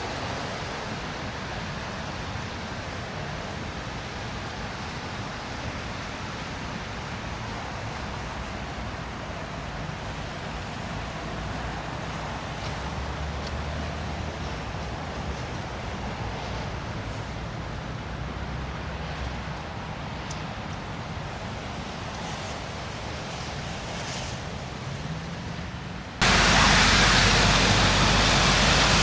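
Steady city street noise, with the low hum of a vehicle's engine passing through the middle; a little before the end it jumps abruptly to much louder traffic noise.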